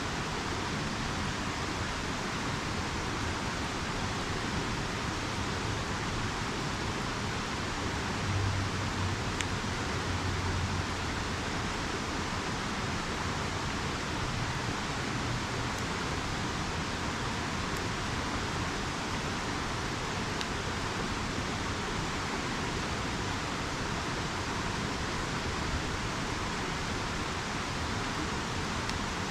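River water rushing steadily, with a brief low rumble about eight seconds in.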